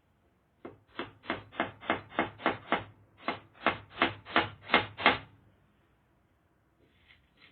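Hammer driving nails: about fourteen quick, even blows at roughly three a second, in two runs with a brief pause between them.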